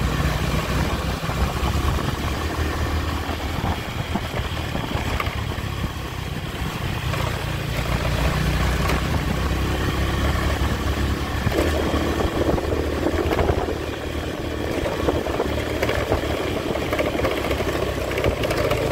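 Honda Tiger motorcycle's single-cylinder engine running steadily under way, with road and wind noise.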